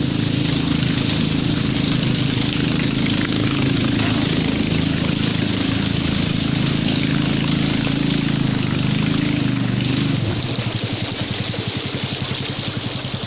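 A small boat's engine running steadily, with rushing water. About ten seconds in it throttles back to a slower, pulsing run as the boat comes in to the pier.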